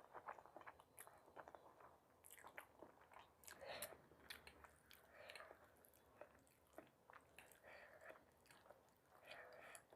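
Faint close-up chewing and biting of food: irregular wet mouth sounds with many small crisp clicks and crunches.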